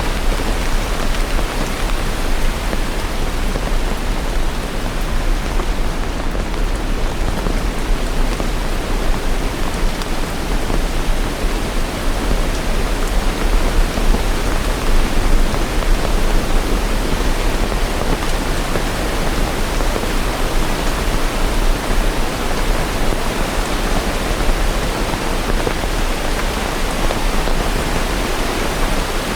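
Steady rain, an even unbroken hiss with no thunderclaps or single drops standing out.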